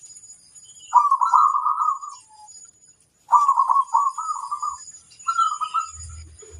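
Zebra dove (perkutut) cooing: three phrases of quick, rolling coo notes with short pauses between them.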